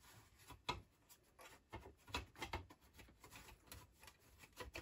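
Faint scrapes and small clicks of a Macintosh 512Ke logic board being slid down into the slots of its metal chassis.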